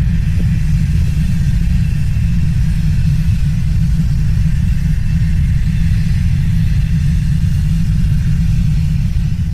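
Deep, steady rumble with no break, its weight all in the lowest range.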